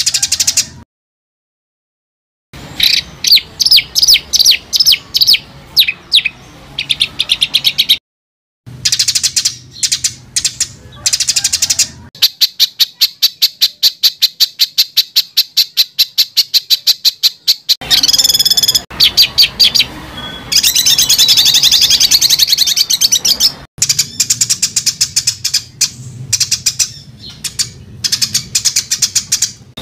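Songbird song made for training competition birds: rapid, harsh repeated notes in dense strings, with a long even run of fast chips, about seven a second, in the middle. The song drops to dead silence twice, briefly, near the start.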